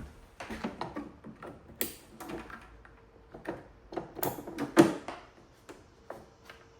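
Clicks, knocks and rattles of a solar panel's cable connectors being handled and plugged into a power station, in irregular bunches, the loudest knock about five seconds in.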